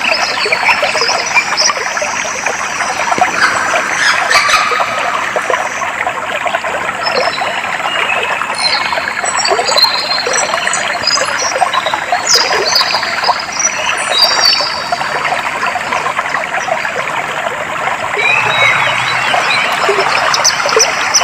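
Clear stream water flowing and trickling steadily, with small birds chirping and whistling over it, the chirps coming thickest about halfway through.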